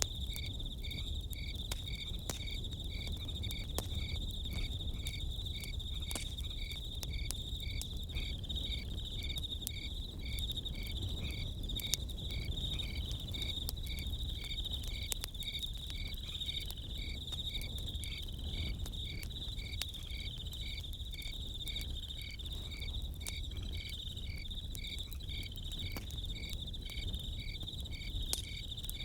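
Crickets trilling steadily, with a second insect chirping in an even pulse a couple of times a second, over the low rush and scattered sharp crackles of a campfire.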